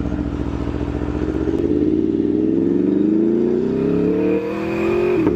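Aprilia Tuono V4 1100 Factory's V4 engine pulling under acceleration, its pitch climbing steadily. About four and a half seconds in there is a brief break, and then it carries on pulling.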